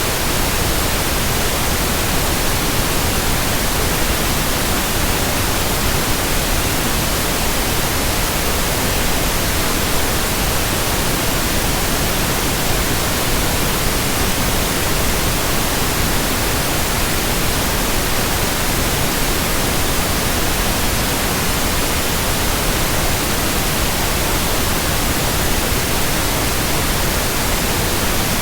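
Steady white-noise hiss, spread evenly from low to high pitch, with no rhythm, swells or changes.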